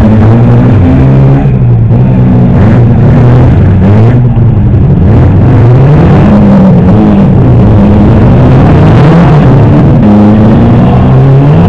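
Several demolition-derby cars' engines revving at once, loud, their pitches rising and falling against each other.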